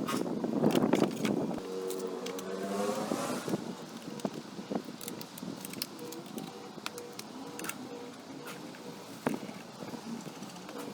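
Honda CRF250L's single-cylinder engine running through a Yoshimura RS-4J slip-on exhaust: loud at first, then falling in pitch and settling to quieter running with scattered clicks.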